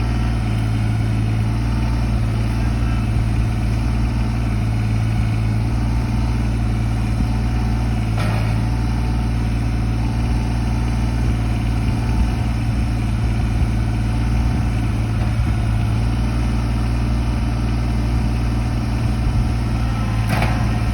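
Tractor engine running steadily at an even speed, with two brief clatters, one about eight seconds in and one near the end.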